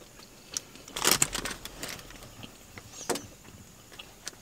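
Close-up eating and food-handling noises: scattered small mouth clicks, with a louder short crunchy, rustling burst about a second in and a shorter one a little after three seconds.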